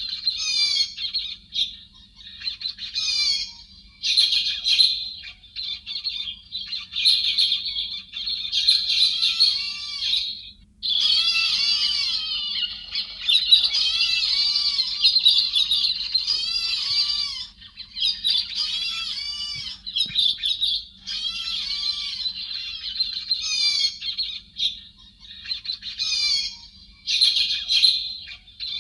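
Héc xoan birds calling, a dense run of overlapping chattering, warbled and trilled calls with only brief pauses, recorded as a lure to draw in a flock.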